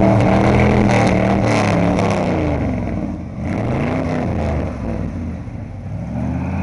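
Pickup truck engine revving hard and easing off again and again as it churns through mud, its pitch rising and falling several times. It dips about three seconds in, then climbs again.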